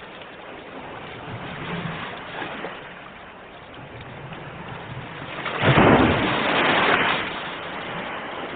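Sea waves washing on a shore, with one wave breaking loudly about five and a half seconds in and rushing for about a second and a half before settling back.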